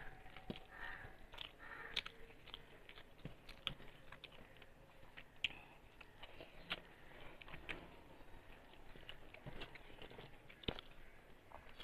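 Soft close-up chewing and lip smacks of a person eating rice with her hand, with scattered light clicks and no steady rhythm.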